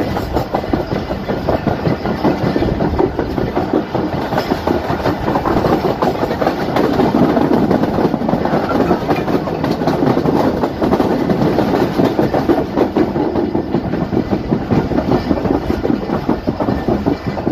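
Pakistan Express passenger coaches running along the track, heard from on board: a steady, loud rumble of wheels on rails and rattling carriages.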